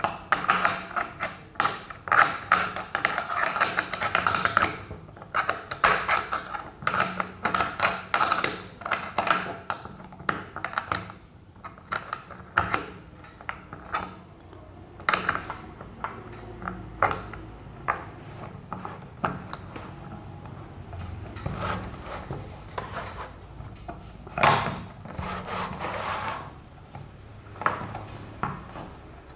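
Rapid clicking and knocking of metal parts as a washing machine trolley's wheel fittings are handled and tightened with a wrench. The clicks come thick and fast at first, then thin out to scattered knocks, a few of them louder.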